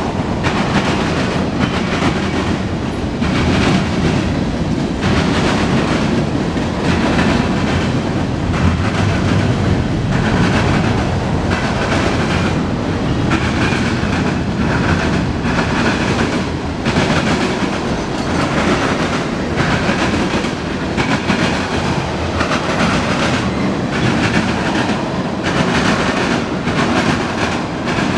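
Freight cars of a mixed freight train rolling past: a steady rumble of steel wheels on rail, with repeated clicking as the wheels cross the rail joints.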